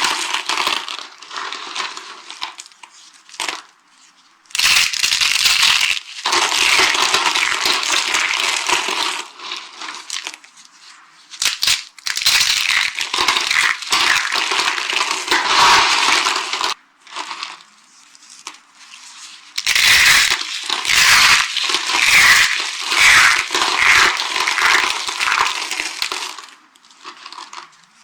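Dry carved soap being crushed, a crunchy crackling that comes in several long spells with short pauses between.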